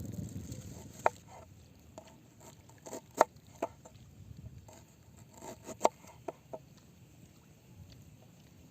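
Several sharp clinks of hard objects striking each other, each with a brief ring, spaced irregularly; the loudest come about a second, three seconds and six seconds in.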